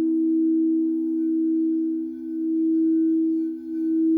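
Singing bowl ringing with a steady, sustained low hum, its tone swelling and dipping in a slow, regular beat about every second and a half.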